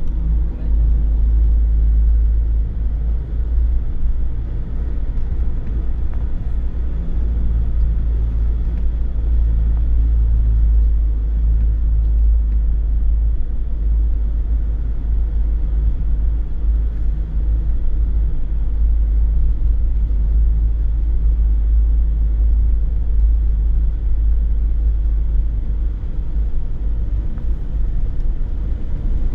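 A car driving along a road: a steady, loud low rumble of engine and road noise, unbroken throughout.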